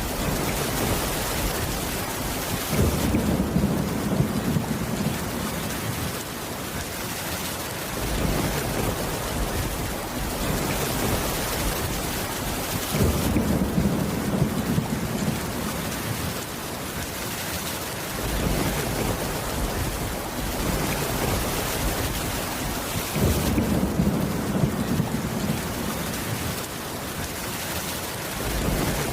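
Steady heavy rain drumming on a wooden cabin roof, with a low rumble of thunder three times, about ten seconds apart.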